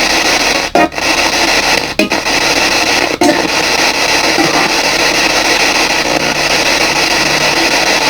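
PSB7 spirit box scanning through radio frequencies: loud, continuous white-noise static with three very short dropouts, about one, two and three seconds in.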